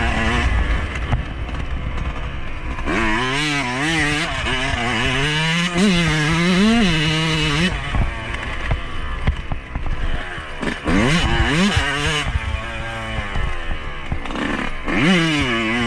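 2021 Yamaha YZ125's single-cylinder two-stroke engine being ridden, its pitch rising and falling again and again as the throttle is opened and closed, with quick sharp drops and climbs in the second half.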